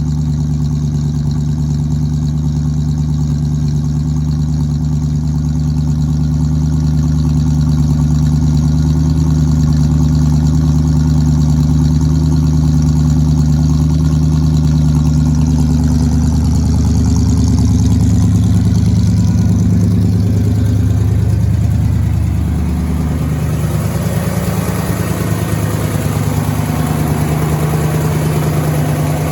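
1956 Dodge D500's 315 cubic inch Hemi V8 running at a steady idle through its exhaust. The low engine tone shifts about two-thirds of the way through, and a hiss rises after that.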